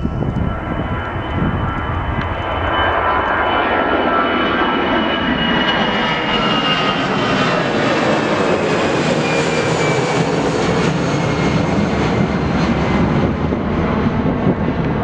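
Jet airliner's engines as the plane passes close by, a loud rushing noise that builds, peaks midway and eases off, with a high whine that slides slowly down in pitch as it goes past.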